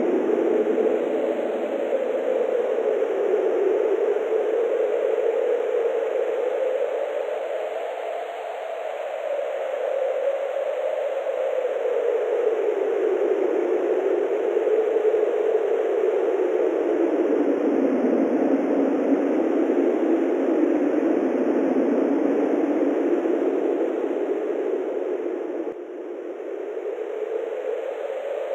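Wind blowing in a steady rushing hiss that slowly swells and eases, its pitch drifting up and down, with a brief lull near the end.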